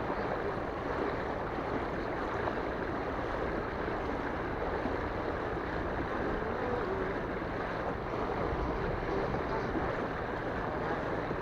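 Steady rush of sea water and wind noise on the microphone around a small inflatable boat.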